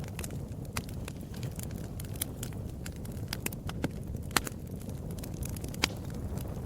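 Wood fire crackling: irregular sharp pops and snaps over a steady low rumble of burning flames, with a few louder pops about two, four and six seconds in.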